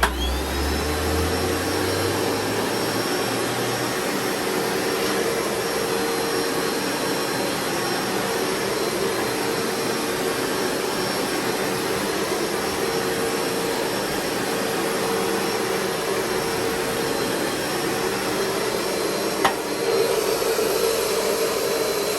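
Bissell ProHeat Advance carpet cleaner switched on, its motor whining up to speed in the first second, then running steadily as it suctions water back out of the carpet on a drying pass. A single sharp click comes near the end.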